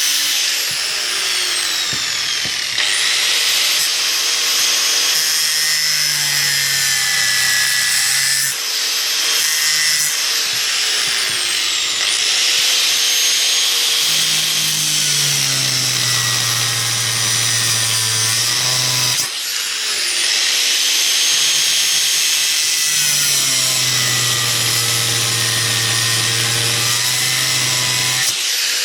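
Handheld power tool cutting, its motor running loud and high-pitched under load. Several times the pitch drops and the motor revs back up, near the start, about a third of the way in and about two-thirds in.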